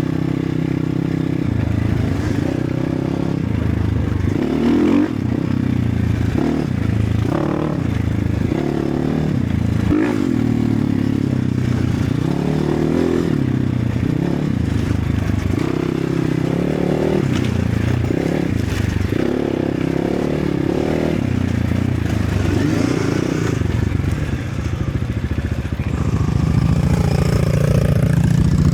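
Enduro motorcycle engine revving up and down over and over as the bike struggles to get moving on the trail, with some clattering.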